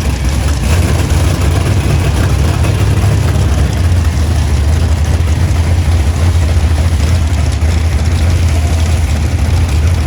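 Vehicle engines running with a steady low rumble and an even background noise.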